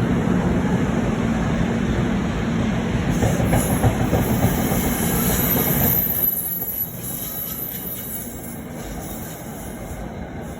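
NJ Transit train rolling through the station, its wheels and cars rumbling on the rails, with a high wheel squeal from about three to six seconds in. The noise drops off sharply about six seconds in, leaving a fainter rumble.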